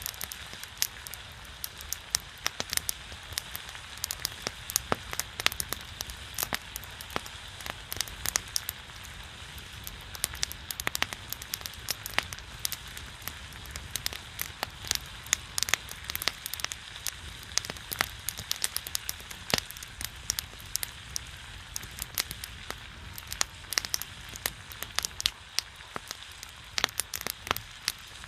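Pork belly sizzling on a griddle over a pine-wood fire: a steady hiss of spitting fat, sounding like rain, dotted with frequent sharp pops and crackles from the fat and the burning pine.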